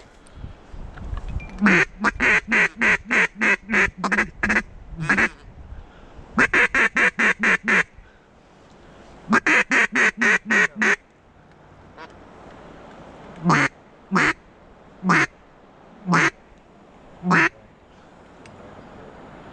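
Mallard duck call blown close by in quacking sequences: three quick runs of about eight to ten quacks each, then five single, longer quacks spaced about a second apart. The calling is aimed at circling mallards to bring them in.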